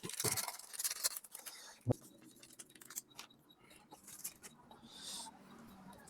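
Plastic instant-noodle seasoning sachets being opened and emptied: a crackly rustle in the first second and a half, a single knock about two seconds in, then scattered small clicks and a soft hiss.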